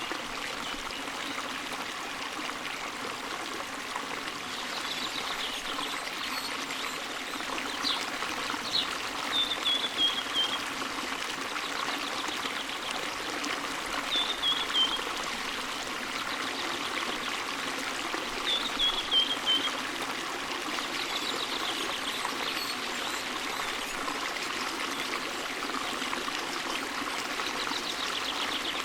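Forest stream flowing steadily over rocks, with a songbird singing a short descending phrase three times.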